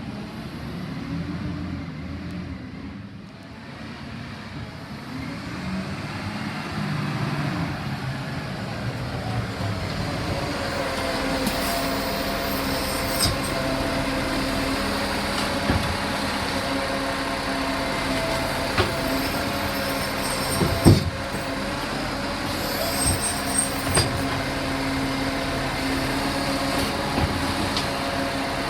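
Garbage truck running, its pitch shifting for the first several seconds and then settling into a steady whine. A few sharp knocks come through in the second half.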